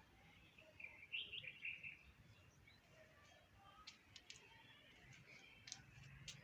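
Faint birdsong: a short burst of twittering chirps about a second in, then a few scattered brief high chirps, over quiet outdoor background.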